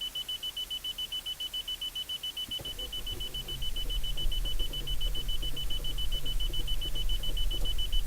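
A car's warning chime beeping rapidly and steadily, about six beeps a second. From about two and a half seconds in, a low rumble with irregular clicking joins it: the engine being cranked but not starting.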